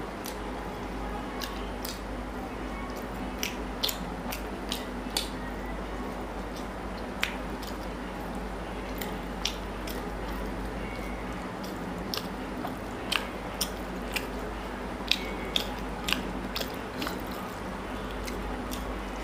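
Close-miked eating of chicken curry and rice: chewing with frequent sharp, wet mouth clicks and smacks at irregular moments, over a steady low hum.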